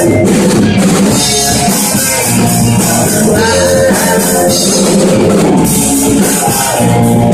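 Live rock band playing loudly: a drum kit with cymbals keeping a steady beat under guitars.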